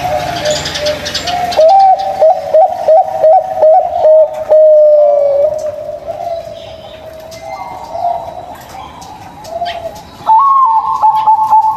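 Zebra dove (perkutut) cooing: a quick run of short notes followed by a longer, slightly falling note, then a quieter stretch. Near the end a loud, higher held note begins.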